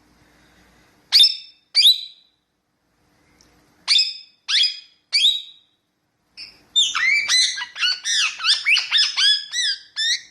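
Ringneck parakeet calling in sharp, high, sweeping calls: two about a second in, three more around four to five seconds, then a fast run of chattering calls near the end.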